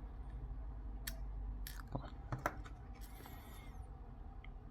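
A few faint clicks and a short scrape of a tiny Phillips 000 screwdriver turning a small screw into a plastic earbud case.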